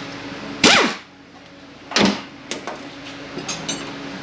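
Two short bursts from a power tool spinning off 10 mm bolts on an automatic transmission, the first dropping quickly in pitch as it winds down, followed by a few light metallic clicks.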